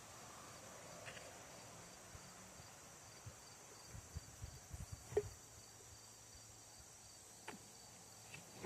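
Near quiet: a few light clicks and knocks, loudest a little past five seconds in, over a faint steady high-pitched pulsing in the background.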